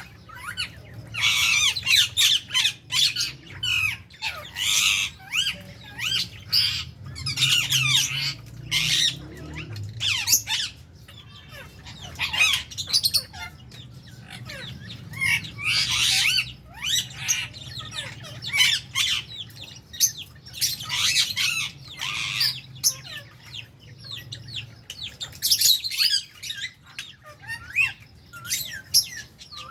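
A flock of lovebirds in an aviary squawking and chattering almost without pause, many shrill calls overlapping, with brief lulls.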